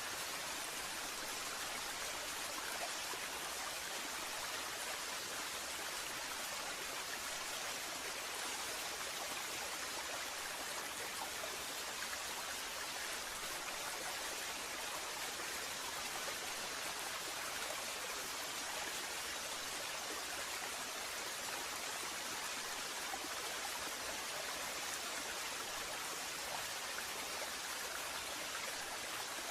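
Waterfall: steady rushing water, an even hiss that does not change.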